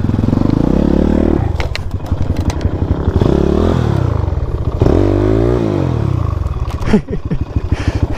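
Motorcycle engine revving up and falling back again and again as the bike labours over rough, potholed off-road ground, with a few clattering knocks about two seconds in and near the end.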